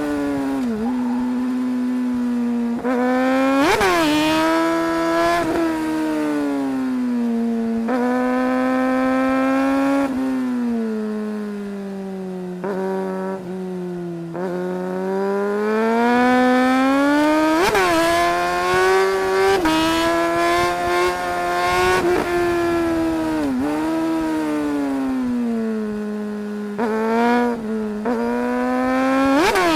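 Suzuki GSR 600 inline-four motorcycle engine being ridden hard: the engine note climbs in pitch under throttle and drops sharply at each gear change, many times over. It falls away in a longer slowdown around the middle before rising again.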